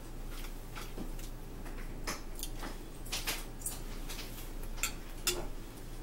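A person chewing a mouthful of pancake, with irregular wet mouth clicks and smacks, over a low steady hum.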